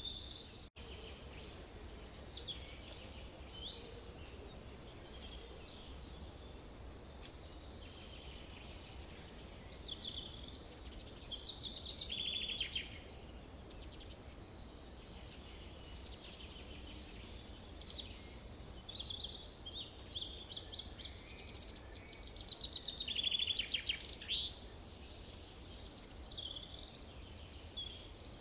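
Several birds singing and calling over a steady low rumble of forest ambience, with two louder rapid trills, one a little before the middle and one later on. The sound drops out for an instant just under a second in.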